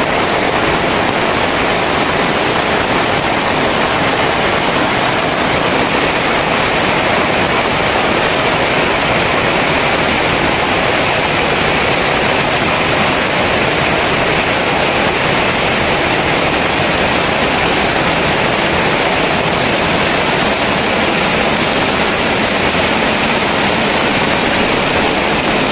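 Very heavy rain pouring down in a steady, loud, even hiss with no let-up.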